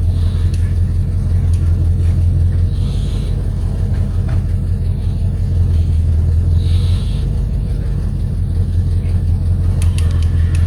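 Fishing boat's motor running steadily while underway, a constant low drone.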